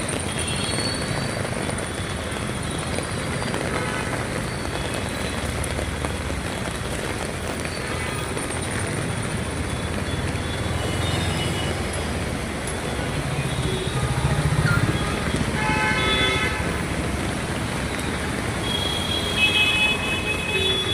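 Road traffic in the rain: a steady hiss of rain and wet tyres with passing engines, one heavier vehicle rumbling by about two-thirds of the way through. Several vehicle horns toot, the clearest just after that and again near the end.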